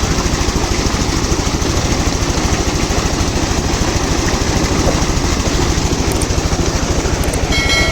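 Oil engine running steadily with a rapid, even beat of firing strokes.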